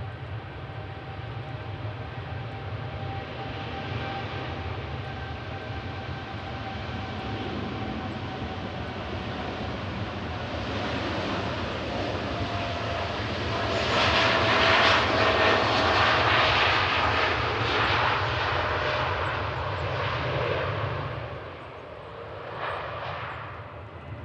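A jet airliner passing the airfield: its engines whine and rumble, build to their loudest about two-thirds of the way through, then fade quickly.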